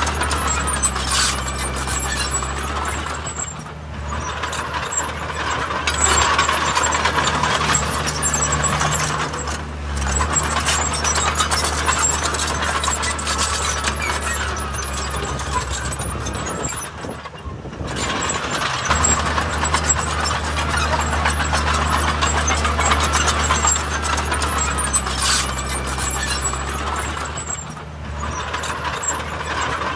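Heavy diesel earthmoving machinery running under load: a steady low engine drone with mechanical clattering over it. The sound eases off briefly several times before picking up again.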